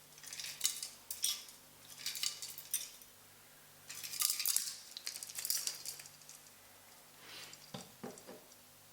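Dishes and cutlery clinking and clattering in three short bouts, with a softer knock near the end.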